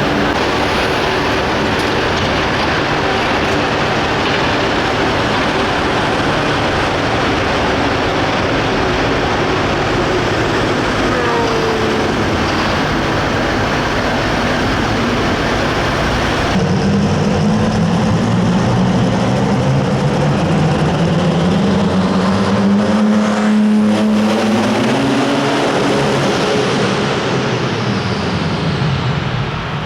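Light limited super stock pulling tractor's diesel engine running loud and steady at full throttle under load. After an abrupt change about halfway through, an engine note climbs slowly in pitch, then drops and fades near the end.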